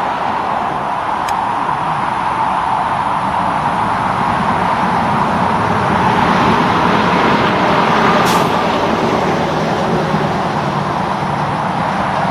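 Steady road traffic noise from passing heavy trucks, rising to its loudest between about six and nine seconds as a vehicle goes by. A short, sharp hiss comes about eight seconds in.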